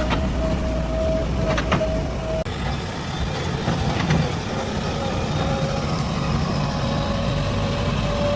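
Backhoe loader's diesel engine running under work, with a steady high whine over the engine note and a few sharp knocks.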